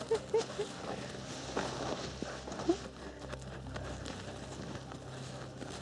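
Footsteps crunching irregularly through deep fresh snow, over a steady low hum.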